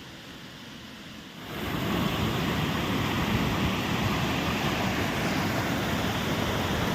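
Steady rush of falling water from a waterfall, cutting in abruptly about one and a half seconds in after a short, fainter stretch of soft music.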